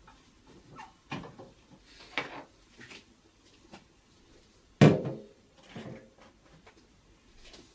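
Kitchen handling sounds: a string of light knocks and clatters as utensils and containers are picked up and set down, with one heavier thud about five seconds in.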